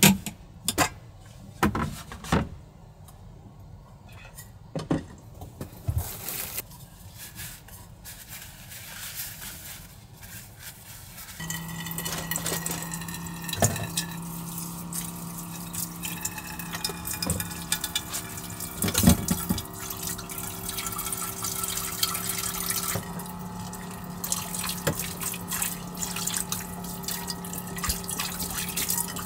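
Rain dripping and pattering on a light truck, with a few scattered knocks at first. About eleven seconds in, the patter becomes much denser over a louder hiss, and a steady low hum starts and runs on.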